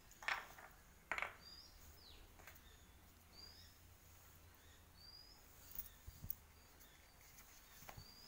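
Faint, short bird chirps repeating every second or two. Two sharp clicks about a quarter second and a second in are the loudest sounds, and a few soft knocks come near the end.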